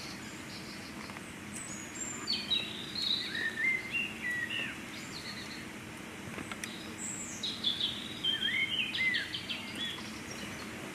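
Songbirds singing in two bursts of short, rising and falling whistled phrases, the first about two seconds in and the second about seven seconds in, over a steady background hiss.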